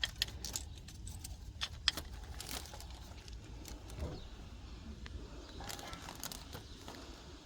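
Light metallic clinks and rattles at irregular intervals as small metal items, such as tools or fasteners, are handled.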